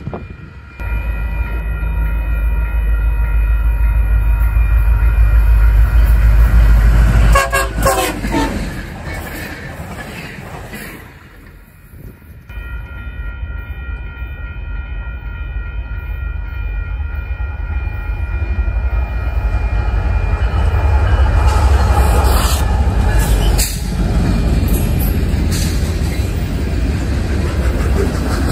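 Union Pacific freight train passing close by: deep rumble of the locomotives and rolling freight cars, with wind buffeting the microphone, while the train horn holds a steady chord. The sound drops away briefly about eleven seconds in, then the rumble of the cars builds again.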